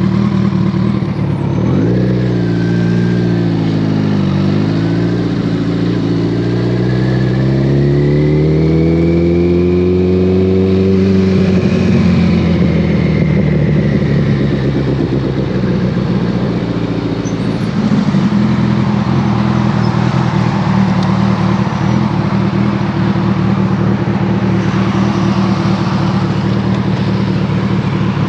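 2014 Kawasaki ZX-14R's inline-four through a Brocks Alien Head 2 full exhaust, riding: the engine note drops a couple of seconds in, then climbs steadily for several seconds as the bike pulls and levels off into a steady cruise, with a step change about two-thirds of the way through and wind noise underneath.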